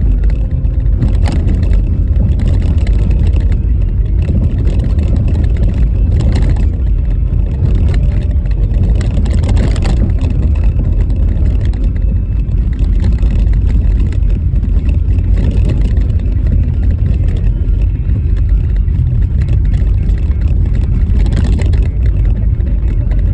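Car driving on a rough, snow-covered road: a steady, heavy low rumble of tyre and road noise, broken by a few sharper knocks as the car jolts over the bumpy surface.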